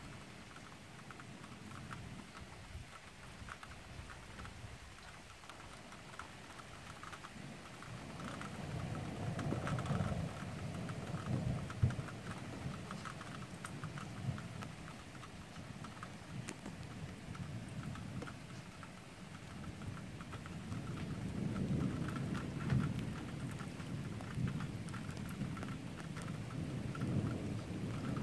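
Rain falling steadily with many small drop impacts, while thunder rumbles in two long low rolls, one building about a third of the way in and another through the last third.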